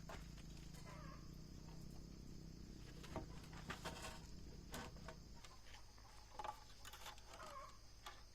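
Faint rural ambience: insects drone steadily, with scattered light clicks and knocks and a few short bird calls. A low hum underneath stops about five seconds in.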